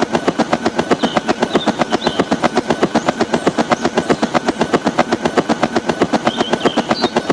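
Fast, steady mechanical clatter, about eight or nine even beats a second, with short high chirps twice.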